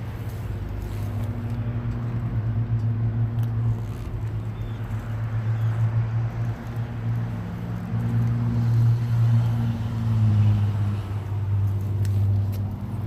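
Supercharged 6.2 L HEMI V8 of a 2015 Dodge Hellcat running through a Borla exhaust: a steady deep drone that swells louder and eases back several times, loudest a little past the middle.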